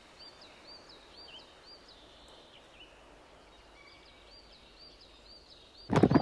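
Faint birdsong: a bird repeating short arched chirps, about two a second. Near the end, loud hoofbeats of a galloping horse cut in suddenly.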